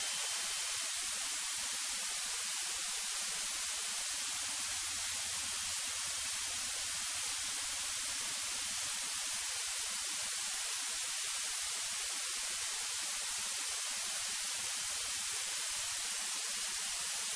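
Steady, even hiss of a cockpit intercom/headset audio feed, with no voices and no clear engine tone.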